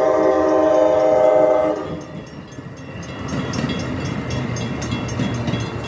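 Train horn sounding a loud, steady multi-note chord that stops about two seconds in. It is followed by the rumble and rhythmic clatter of the train's wheels on the rails.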